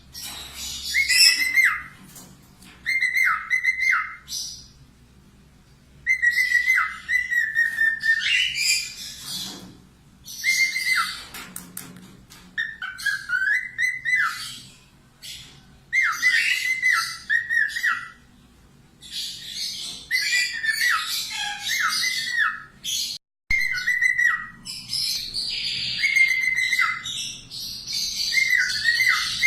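Parakeet chattering in repeated bursts of shrill chirps, each burst a second or two long with short pauses between.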